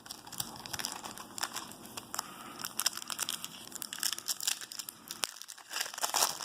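Trading cards being handled and flipped through: quick, irregular rustling, sliding and crinkling of Topps Chrome cards and their pack, with a brief lull about five seconds in.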